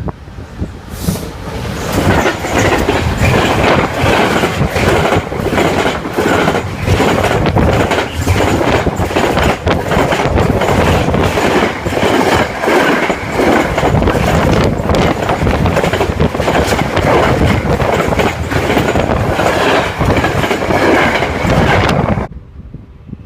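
A train passing close by at speed, wheels clattering rhythmically over the rail joints, with a steady rushing noise; the sound swells in about two seconds in and cuts off abruptly near the end.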